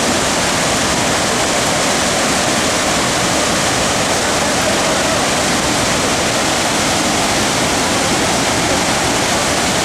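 Waterfall in full monsoon flow: a loud, steady rush of falling water.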